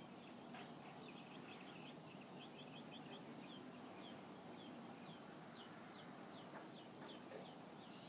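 Faint bird calls: a run of short high chirps, rapid at first and then spaced out to two or three a second, over a low steady background hiss.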